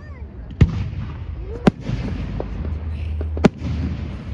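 Fireworks display: aerial shells bursting, with three sharp loud bangs, the first about half a second in, one near the middle and one near the end, and smaller pops in between.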